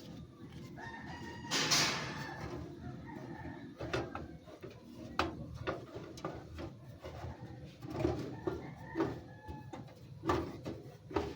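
A rooster crowing in the background, mixed with scattered clicks and knocks.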